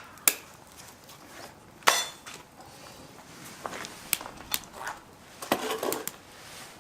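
Metal clinks and knocks from handling camp cooking gear: a sharp click at the start, a louder ringing clink about two seconds in, then a run of smaller clinks and clatter.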